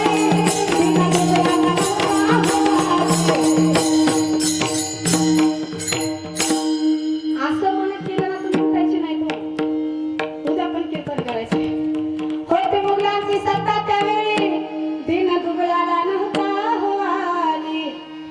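Devotional kirtan music: tabla and bright jingling percussion over a steady held drone. The jingling thins out about six seconds in, leaving the drums and a wavering melody line.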